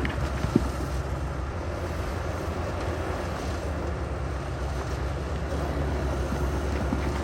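Heavy earthmoving machinery's diesel engine running steadily with a low rumble, and one short sharp knock about half a second in.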